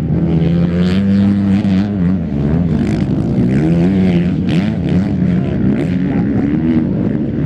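250 cc enduro racing motorcycle engines, revving up and down repeatedly as the throttle opens and closes.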